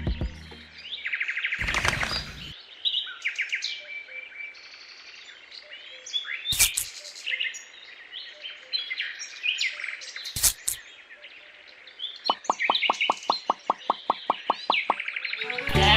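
Small birds chirping and tweeting in short, repeated calls, with a few sharp knocks and, near the end, a quick run of clicks at about six a second.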